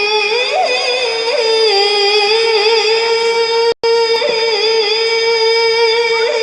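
A child qari reciting the Qur'an in melodic tilawah style: one high voice holding long, drawn-out notes with wavering ornaments, broken by a split-second gap about four seconds in.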